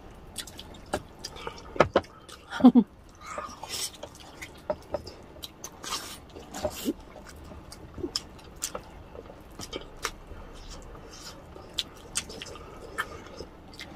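Close-miked eating sounds of braised pork and rice eaten by hand: wet chewing, lip smacks, finger sucking and many quick mouth clicks. A short low murmur comes about two and a half seconds in.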